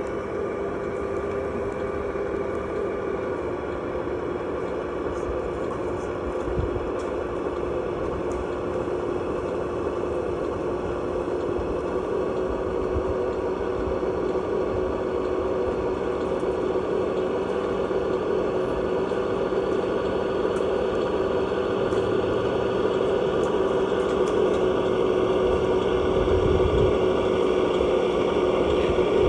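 1/14-scale RC utility truck running: a steady mechanical hum that grows slowly louder toward the end.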